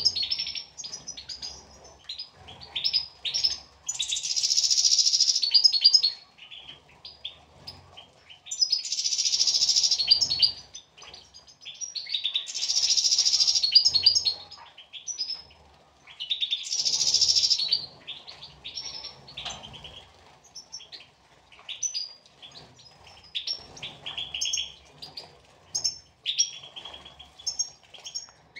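European goldfinches chirping, a steady run of short high notes. Several louder, dense stretches of about two seconds each break in along the way.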